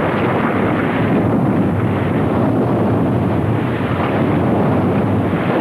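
Volcanic eruption: a dense, steady rumbling noise with no breaks.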